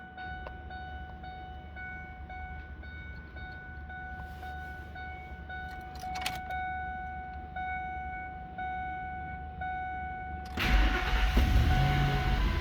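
A truck's warning chime dings repeatedly, then the 2002 Ford F-150's 4.6L V8 cranks and fires with a sudden loud start about ten seconds in and runs on while the chime keeps going briefly.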